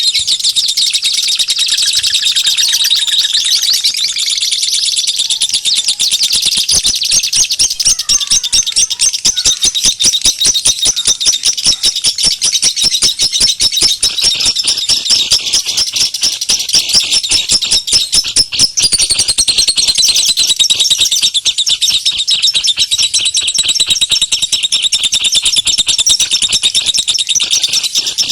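Recorded bird lure call: a dense, fast, high-pitched chirping and twittering that keeps up without a break, played to draw wild birds in.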